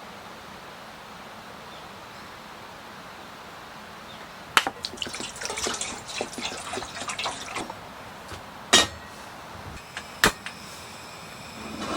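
Steady rain hiss, then about four and a half seconds in a sharp click followed by some three seconds of liquid trickling and dripping. Two sharp knocks follow, about a second and a half apart.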